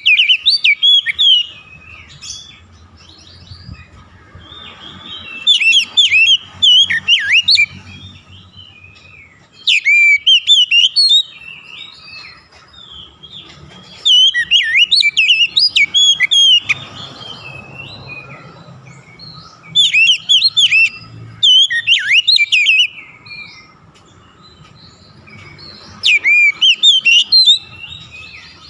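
Oriental magpie-robin (kacer) singing: loud, rapid whistled song phrases of a second or three each, repeated about every five or six seconds with short pauses between.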